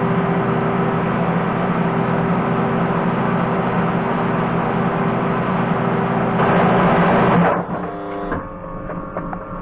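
A workshop power tool running loudly and steadily with a droning hum, turning harsher about six seconds in and stopping about a second later.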